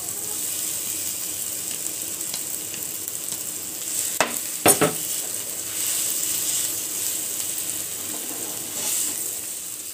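Onions, spices and boiled potato sizzling in oil in a nonstick frying pan while a spoon stirs and mashes the potato in. Two sharp knocks about four to five seconds in, the spoon striking the pan.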